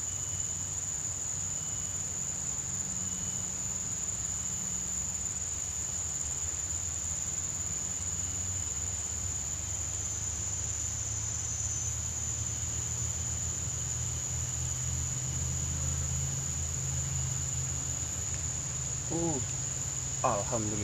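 Insects calling in one steady, unbroken high-pitched tone, over a low steady rumble. A short voice-like sound comes near the end.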